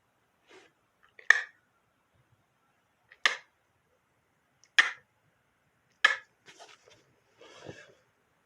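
Furnace pilot spark igniter clicking: four sharp clicks about one and a half seconds apart, each a try at lighting the gas pilot, with fainter small clicks and rustling between them and near the end.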